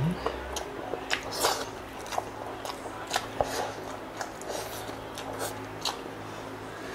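Close-miked eating sounds of a person chewing deep-fried pork knuckle and rice: wet mouth smacks and sharp little clicks and crackles, about two a second, with a finger being licked near the end.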